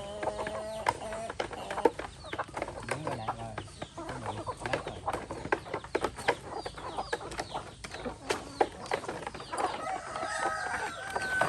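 A flock of chickens clucking and calling, with many short, overlapping calls throughout and a few longer held calls near the start and the end.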